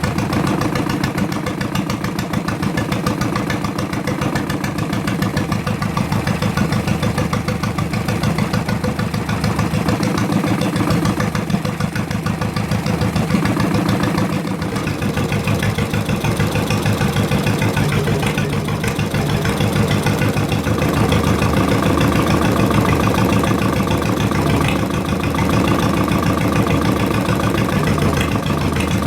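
Ford Model T engine cut down to a two-cylinder boat motor, running steadily with rapid, even firing pulses.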